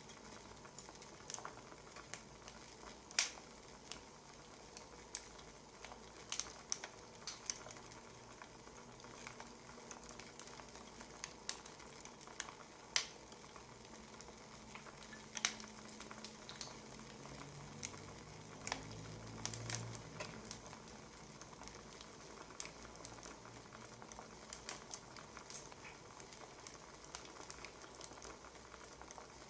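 Firewood crackling in a fire: irregular sharp pops and snaps over a steady soft hiss, with a brief low hum about two-thirds of the way through.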